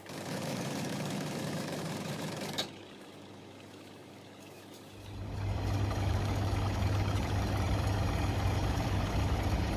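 Factory machinery running: a noisy mechanical sound that cuts off suddenly a few seconds in, then, after a quieter stretch, a steady low machine hum that starts about halfway through.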